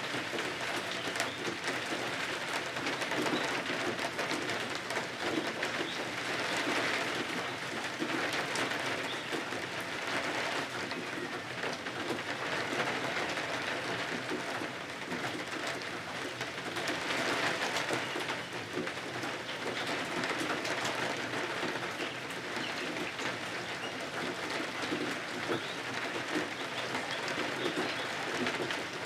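Steady rain pattering on windows, a dense even patter that swells and eases every several seconds.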